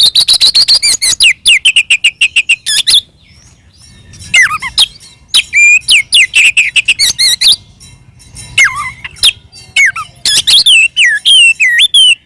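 Oriental magpie-robin (kacer) singing loudly in its aggressive fighting song: fast runs of sharp chattering notes and whistled glides, with brief pauses about three and eight seconds in.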